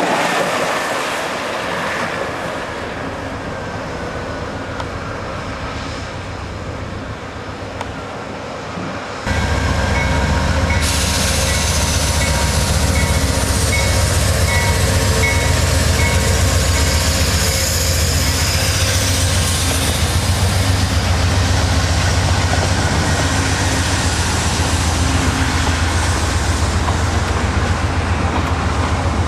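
A bus passes close by with a falling pitch. About nine seconds in the sound jumps louder to an Amtrak diesel locomotive and its passenger cars rolling past, a steady deep rumble with rail noise.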